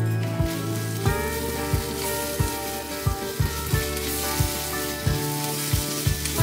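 Pork and vegetables sizzling in a wok as they are stir-fried, the sizzle growing louder about halfway through. Background music with a steady beat plays over it.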